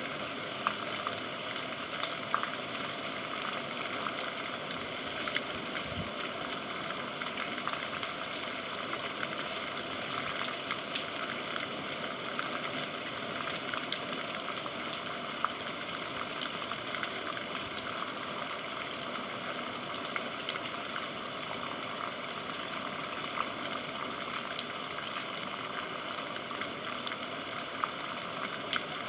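Steady rain: an even hiss of falling water with many small, sharp drop impacts scattered through it.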